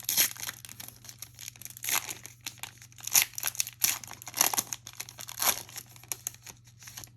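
Trading card pack wrapper being torn open and crinkled, in an irregular run of crackling rustles.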